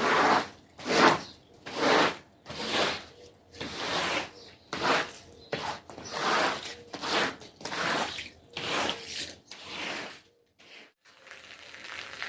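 Repeated scrubbing strokes on a carpet, about one a second, each a short rasping swish. After a brief pause near the end, a steady hiss begins.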